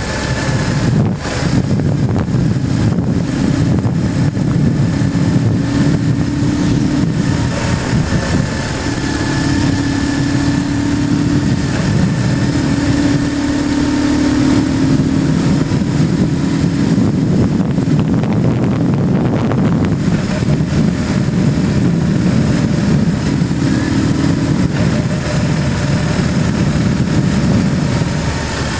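BMW GS motorcycle engine running under way, with wind rushing over the microphone; the engine note swells and eases a few times with the throttle.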